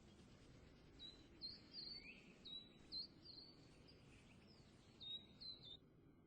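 Faint bird chirping: a string of short, high chirps over low background noise, starting about a second in and stopping shortly before the end.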